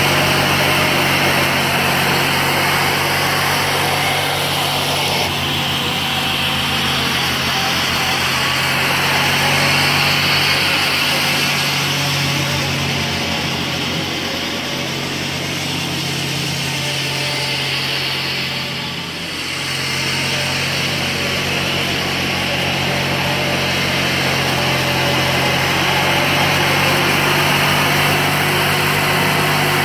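Briggs & Stratton 14 HP opposed-twin engine of a Bolens garden tractor running steadily, with a brief dip in loudness about two-thirds of the way through. The engine is running again after being freed from seizure.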